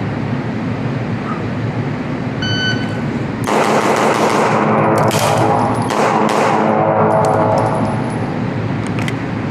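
Shot timer beeps once, and about a second later a pistol fires a fast string of eight shots, finishing under four seconds after the beep, with the reports ringing on together.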